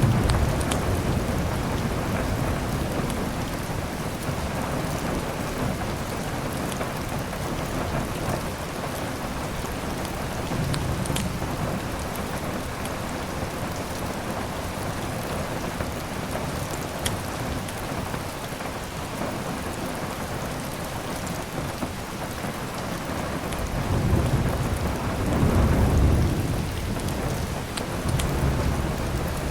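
Steady heavy rain with low thunder rumbles swelling at the start, about a third of the way in, and loudest near the end. A few faint sharp crackles from a fireplace.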